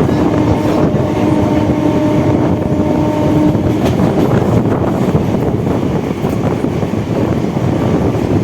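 Electric suburban local train running at speed, heard from onboard: a loud, dense rush of wheel and wind noise. A steady humming tone rides over it and stops about three and a half seconds in.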